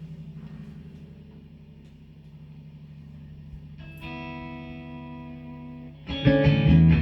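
Electric guitar music through effects. A low held drone is joined about four seconds in by a sustained chord, and just after six seconds much louder, distorted playing comes in.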